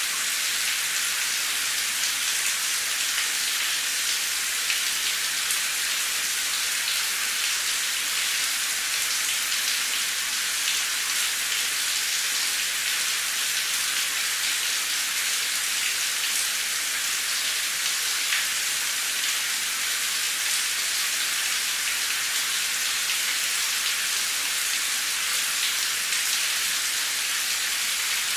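Steady rain falling on a concrete street: an even, high hiss of fine droplets, with faint ticks of single drops scattered through it.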